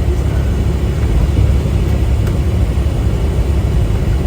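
Steady low rumble of a semi truck's engine and road noise heard inside the cab while driving.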